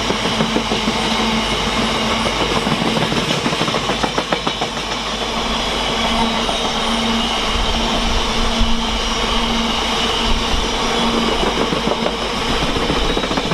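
Freight train hauled by a DRS Class 66 passing through the station, its wagons rolling by with a continuous clickety-clack of wheels over the rail joints.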